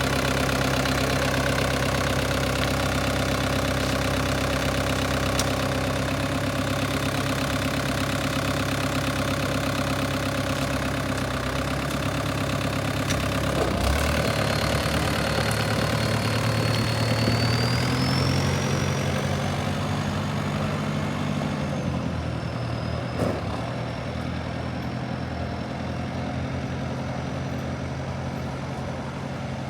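Farm tractor engine running steadily. Its pitch swells higher for a few seconds past the middle, with a thin high whine rising alongside, then drops back and runs a little quieter to the end.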